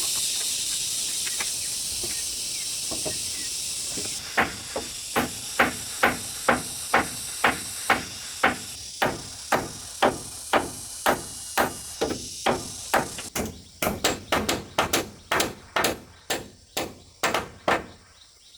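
A high hiss fades out about four seconds in. Then comes a long run of sharp, evenly spaced blows, like hammering, about two a second, which quicken to about three a second for the last few seconds before stopping.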